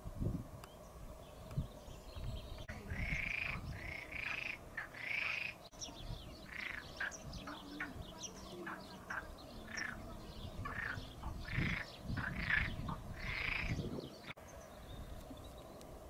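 Small birds singing and calling: a run of short chirps and a few longer warbled notes, starting a few seconds in, over a low rumbling background.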